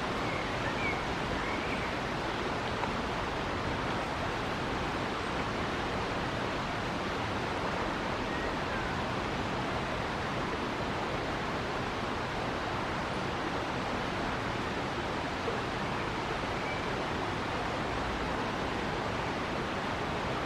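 River water rushing steadily. A few faint bird chirps come through near the start and again later.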